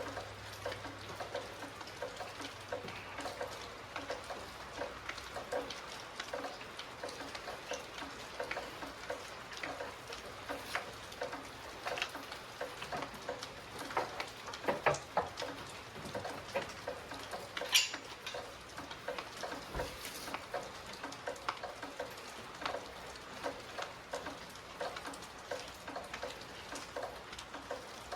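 Rain falling, heard as a steady patter with many irregular small drips and ticks, with a few louder clicks and taps of metal from the compression tester being fitted into a spark plug hole.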